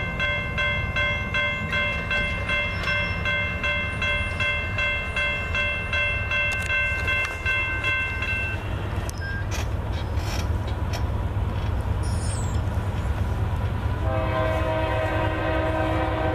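Low, steady rumble of a freight train passing, with a grade-crossing bell ringing about twice a second until about halfway through. Near the end a locomotive air horn sounds a held chord.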